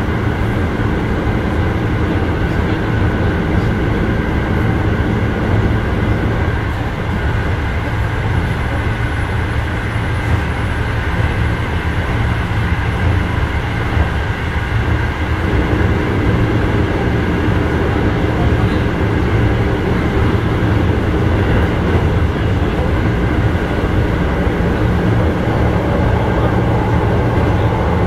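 Cabin running noise of a Keio 7000 series electric train at speed: a steady low rumble of wheels on rail with a steady high-pitched whine over it.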